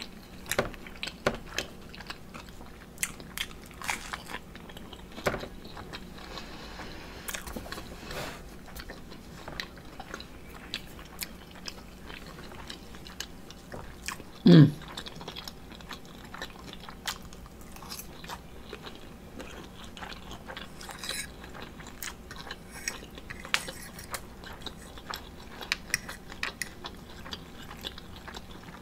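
Close-miked chewing of omelet: wet mouth clicks and smacks throughout, with the fork now and then tapping the plate. About halfway through comes one short, loud hum of the voice that falls in pitch.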